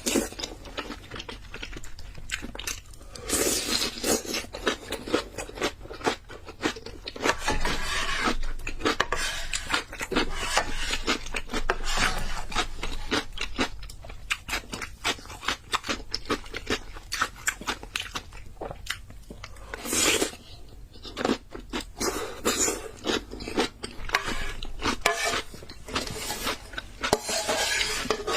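Close-miked eating of noodles: chewing and biting with many small wet clicks and crunches, broken by a few longer noisy stretches.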